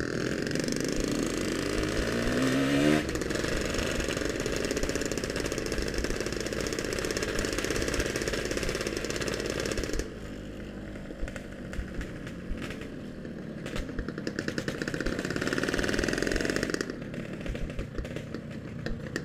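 Yamaha RX-King's 135 cc single-cylinder two-stroke engine under way, climbing in revs in the first few seconds before a gear change. It then runs steadily, drops quieter for a stretch in the middle and picks up again near the end.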